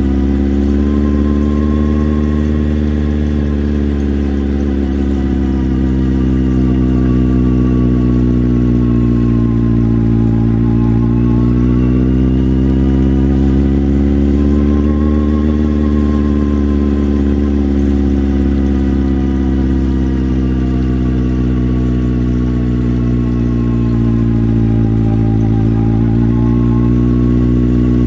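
Motorcycle engine running under way, its revs rising and easing off gently several times as the bike rides along.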